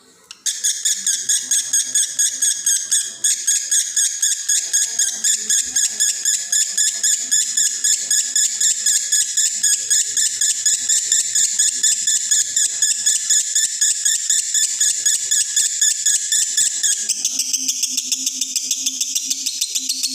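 Male lovebird in breeding condition singing its long 'konslet' song: a fast, unbroken string of shrill chattering notes. Near the end the song shifts to a higher, thinner run.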